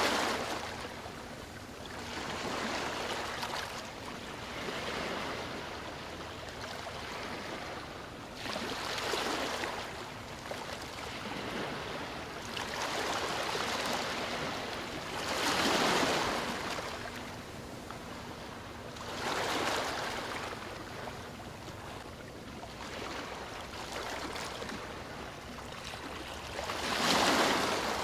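Sea waves breaking and washing up the shore, a rushing surge every few seconds that swells and fades, the strongest ones about halfway through and at the very end.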